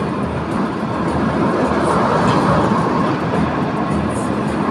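Steady road and tyre noise of a car driving at highway speed, heard inside the cabin, with the engine running under it.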